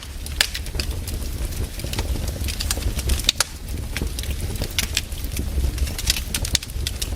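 Wood fire burning: irregular sharp crackles and pops, several a second, over a steady low rumble.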